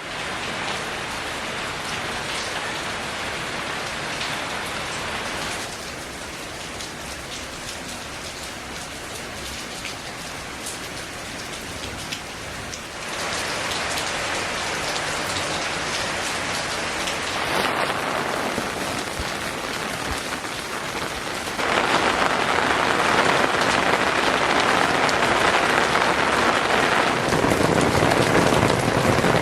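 Steady rain falling, an even hiss of drops hitting surfaces. Its loudness changes suddenly several times and is loudest over the last third.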